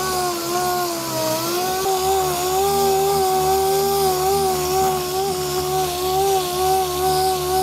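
Power sander running steadily, sanding down the cured fiberglass patch on the floor pan. It is a continuous whine whose pitch wavers slightly as the tool is pressed and moved, over a hiss.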